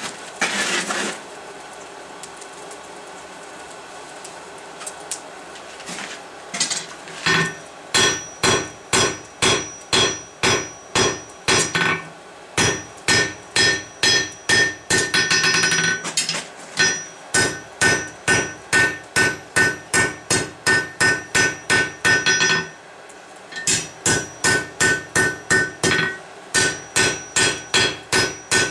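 Blacksmith's hammer striking hot steel on an anvil, about two blows a second with a metallic ring after each strike, beginning about six seconds in and stopping briefly twice near the end. A short rushing noise comes just before, near the start.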